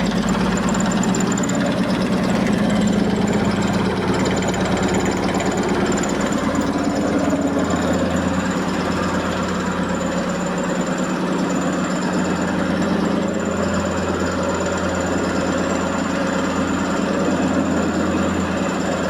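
Electrolux 15 kg commercial washing machine in its final spin at about 1245 rpm, with an unbalanced load. The drum runs with a steady, rapid knocking vibration and a thin high whine.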